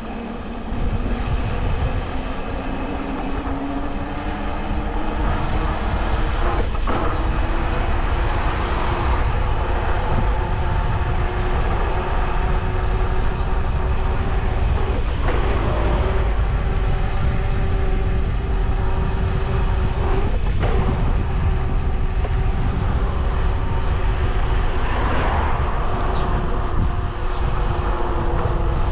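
Electric mountain bike's motor whining under pedalling, its pitch climbing over the first few seconds and then holding steady, over the low rumble and rattle of the bike rolling on rough trail, with a few sharp knocks from bumps.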